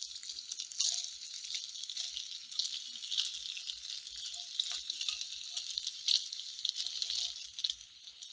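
Slices of fatty cured meat starting to sizzle in a frying pan as it heats, with a steady hiss and scattered small pops and crackles: the fat is beginning to render out.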